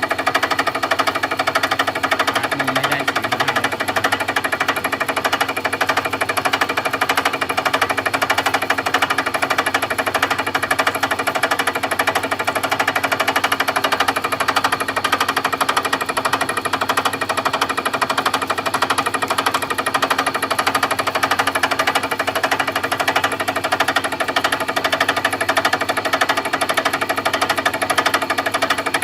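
Milling machine running and cutting, a steady, loud, rapid chatter of the cutter against the work over a constant spindle whine.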